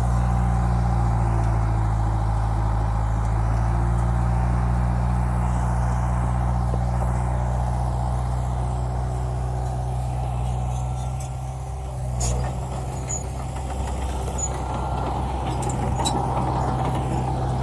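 Heavy earthmoving machine's diesel engine running steadily under load. It eases off briefly about eleven seconds in, with a knock about a second later, then runs steadily again.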